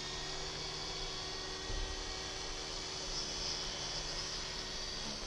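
WLtoys V912 RC helicopter's electric motor and rotor running at a steady speed: an even hum with a thin high whine.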